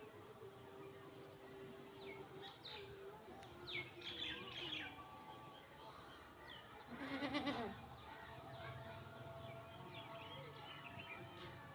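Small birds chirping a few seconds in, then a louder, short animal call with a quavering pitch about seven seconds in.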